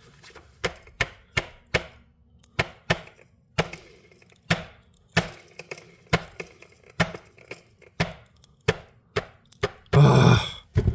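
Sharp, irregular clicks and knocks, about two a second, from handling the parts of a broken cordless grinder. A louder breathy burst comes near the end.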